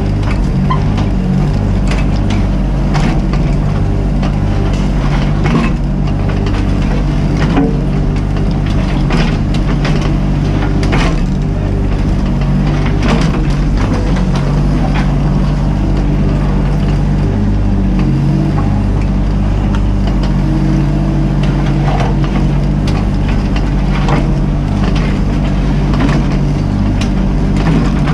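Mini excavator's diesel engine running steadily under working load, with repeated sharp knocks and scrapes from the machine at work.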